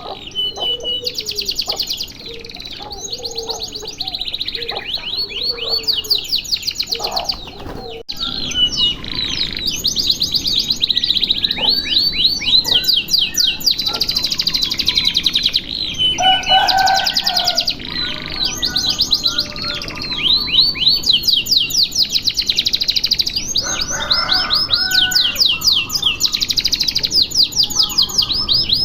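Domestic canary singing a long, nearly unbroken song of fast, high rolling trills, one trill run after another. Lower, softer chirps sound beneath it at times, and the song breaks off for an instant about eight seconds in.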